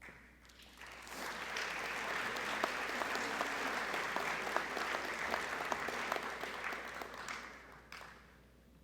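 An audience clapping in a gymnasium, swelling about a second in, holding steady, then dying away near the end.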